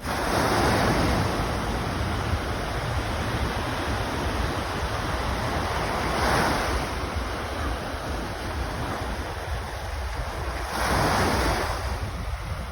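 Sea waves breaking on the shore: a steady rush of surf that swells three times, near the start, about six seconds in and about eleven seconds in. Wind buffets the microphone with a low rumble.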